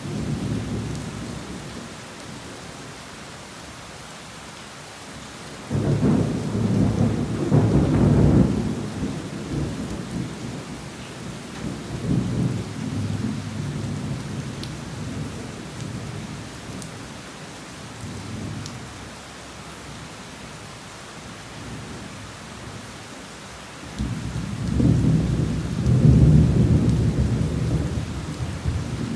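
Heavy rain falling steadily, with rolling thunder. A loud rumble of thunder starts suddenly about six seconds in, a weaker one follows a few seconds later, and another loud rumble builds near the end.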